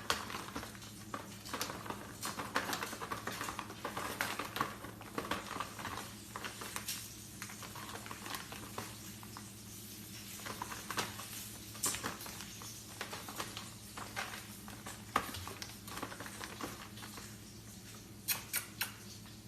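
Scattered light taps, clicks and scratching, irregular and uneven, over a steady low hum.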